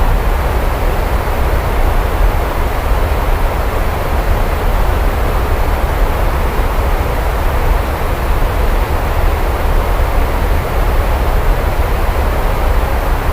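Steady heavy rain falling, an even hiss with a strong deep low rumble beneath it and no separate claps or drips standing out.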